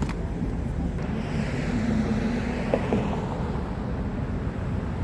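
Road traffic: a vehicle passing, its tyre and engine noise swelling from about a second in and fading near the end, over a steady low rumble.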